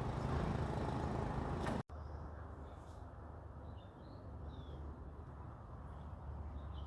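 Small birds chirping in short, high, falling notes over a low steady hum, after an abrupt cut about two seconds in; before the cut, a louder, denser noise of unclear source.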